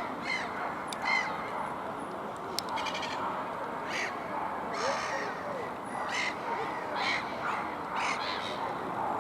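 A flock of black-headed gulls calling: short harsh cries, overlapping and repeated about once or twice a second over a continuous background of bird chatter.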